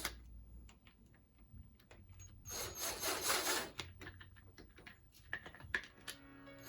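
A rough scraping rub lasting about a second, starting about two and a half seconds in, among scattered light clicks and taps, with a shorter scrape near the end.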